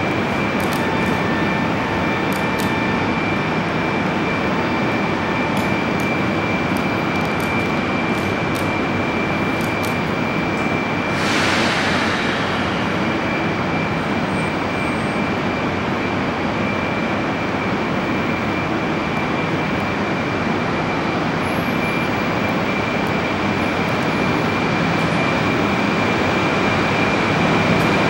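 200 Series Shinkansen standing at the platform with its under-floor equipment and blowers running, a loud steady noise carrying a high steady whine. About eleven seconds in there is a short hiss of air, and near the end the noise swells a little as the train begins to pull away.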